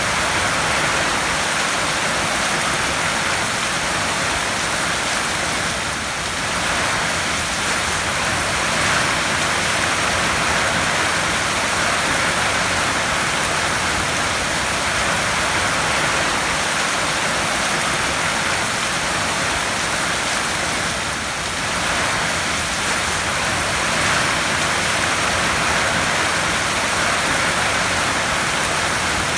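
Heavy rain falling on a tin roof: a steady, dense patter of drops on metal that eases slightly for a moment twice.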